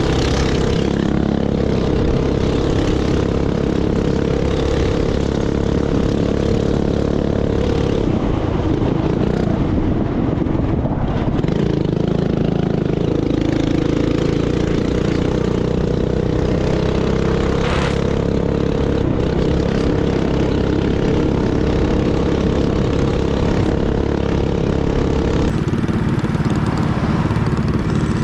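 Mini bike's small single-cylinder four-stroke engine running under throttle while riding, its pitch dropping and rising a few times as the rider eases off and opens up again.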